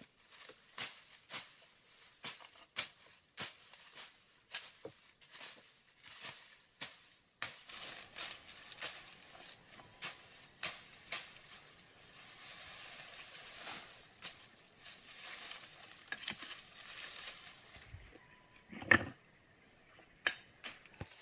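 Hand tools knocking and scraping on stone and mortar in a quick, uneven series of sharp knocks, about two a second, with a stretch of scraping in the middle and one heavier thump near the end.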